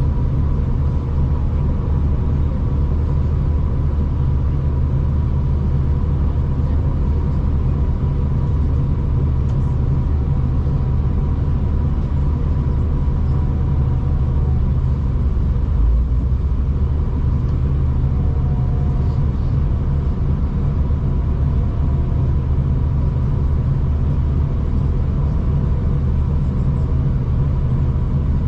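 Steady low rumble of a V/Line passenger train running, heard from inside the carriage, with a faint steady high tone over it.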